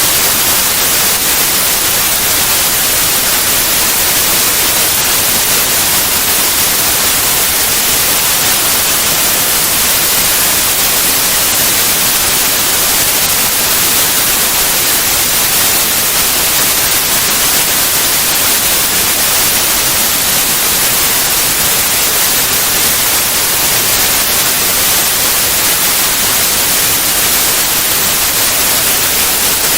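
Steady white noise: an even, unchanging hiss across all pitches, strongest in the highs, with no breaks or other sounds.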